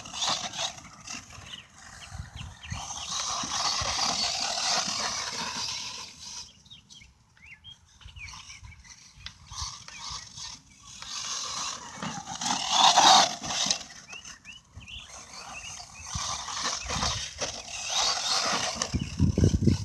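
Redcat MT10e electric RC monster truck on a 2S LiPo driving over rough ground, with motor whine and the noise of its tires and suspension on the dirt. The sound rises and falls unevenly, with a quieter stretch near the middle.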